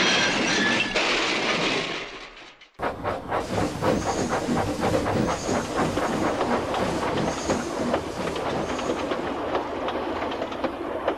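A rushing hiss that fades out over the first two to three seconds, then a train's wheels clattering over rail joints in a fast, steady clickety-clack as a line of freight wagons rolls past.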